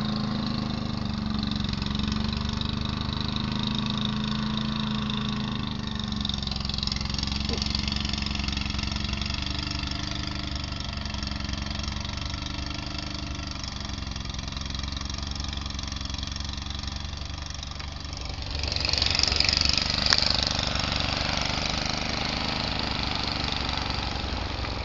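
Snowblower's small engine running steadily, with a louder rushing noise for a couple of seconds about nineteen seconds in.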